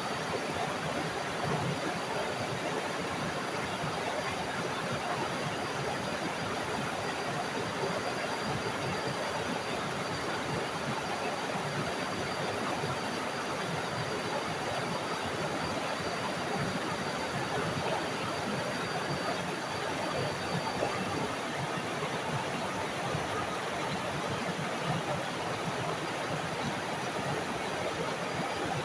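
Small forest waterfall: water falling and splashing in a steady, unbroken rush. A thin, steady high tone sits faintly above it and fades out about two-thirds of the way through.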